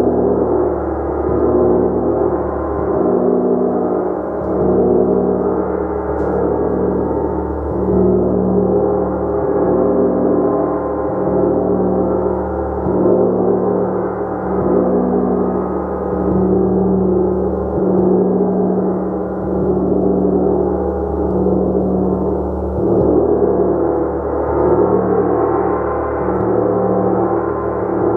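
A gong played continuously, a dense wash of many overlapping tones that swells and ebbs every couple of seconds with no single loud strike standing out.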